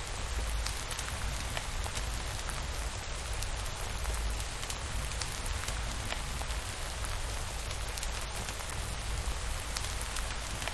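Steady rainfall, with scattered sharp ticks of single drops over a low rumble.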